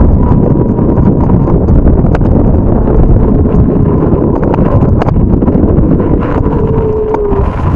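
Strong wind buffeting the microphone, a loud, constant low rumble, with a faint steady whine and scattered light clicks under it.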